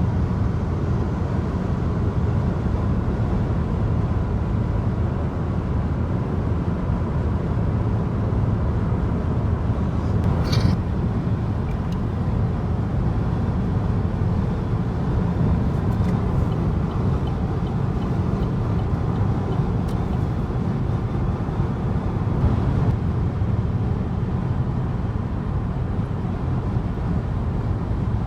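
Steady road and engine noise of a moving car, heard from inside the cabin, with a brief click about ten seconds in.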